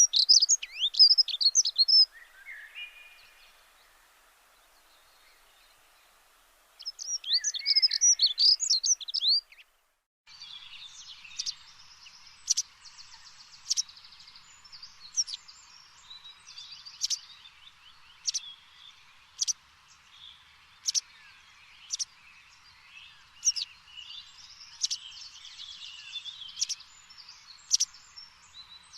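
Songbirds singing: two bursts of quick warbling phrases, then an abrupt change about ten seconds in to short sharp chirps repeated roughly once a second over fainter trills.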